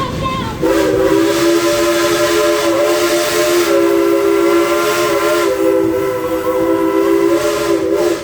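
Steam locomotive whistle of engine 192 Klondike Katie, blown in one long blast: a chord of several steady tones held for about seven seconds over a rushing hiss, cutting off sharply near the end.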